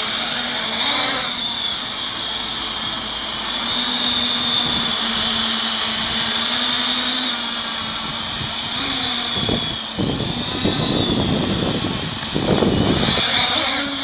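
Quadcopter's electric motors and propellers whining steadily, the pitch shifting up and down as the flight controller corrects for the wind. Gusts of wind buffet the microphone in the second half, loudest near the end.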